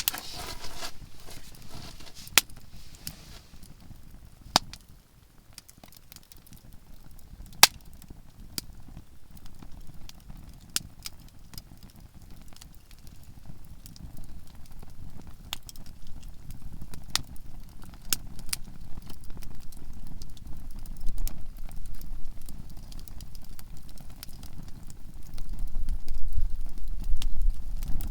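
Softwood campfire crackling, with sharp pops from the burning conifer logs every second or few. A low rumble builds near the end.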